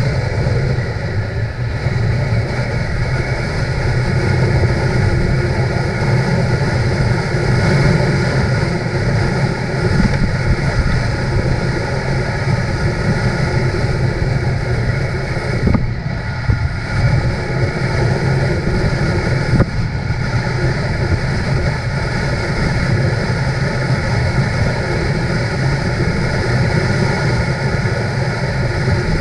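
Motorcycle engine running steadily at cruising speed, with wind noise on the microphone. Two brief sharp knocks past the middle.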